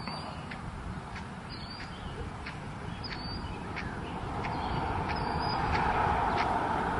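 Outdoor roadside sound: a bird gives short high chirps about every second and a half, while the road noise of an approaching car grows steadily louder through the second half.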